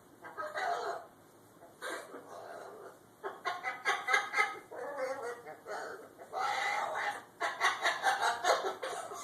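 Blue-and-gold macaw mumbling: strings of short, speech-like but wordless babble with quick clicks, in several bursts.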